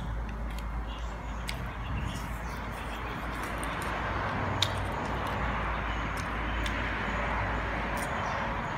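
Chewing on fried chicken wings: scattered small crunches and mouth clicks, with one sharper click about four and a half seconds in, over a steady background hiss and low hum.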